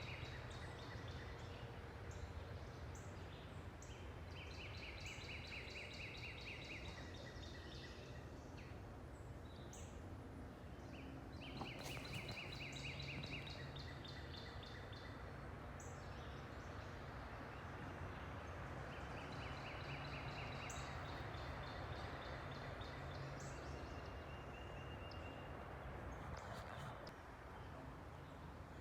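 Outdoor ambience: a songbird sings a short buzzy trill several times, a few seconds apart, over a steady low hum of distant machinery or traffic.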